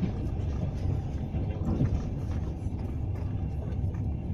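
Steady low rumble of a moving passenger train heard from inside the carriage, its wheels running on the rails, with faint scattered ticks and rattles.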